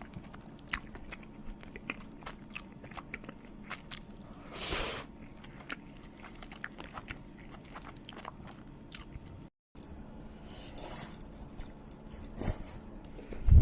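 A person chewing and crunching food close to the microphone: many small crisp clicks, with a longer rustling crunch about four and a half seconds in and another about eleven seconds in.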